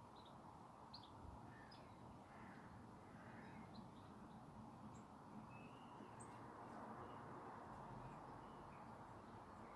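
Wild birds calling faintly: short, scattered chirps and calls over a steady low background hiss.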